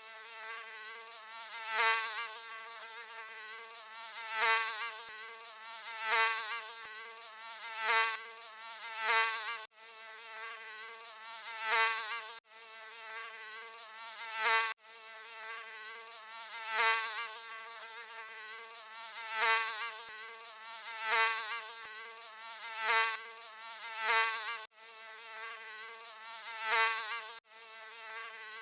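Mosquito wing buzz: a continuous high, whining hum with many overtones that swells loud about every two seconds, as if the insect were passing close by. It drops out abruptly for an instant a few times, where the recording is spliced.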